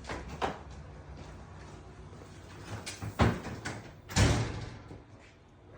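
A door being handled: light clicks and knocks, then two heavy thuds about a second apart, the second the loudest, as it is shut.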